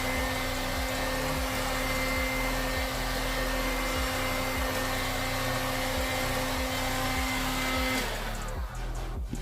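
Heat gun running, its fan motor whirring with a steady hum as it blows hot air to dry freshly sprayed paint; it switches off about eight seconds in.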